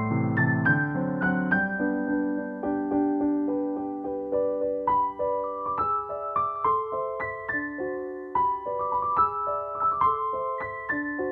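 Background music: a piano-like keyboard playing a simple melody over chords. It opens with held chords and moves to single notes struck one after another.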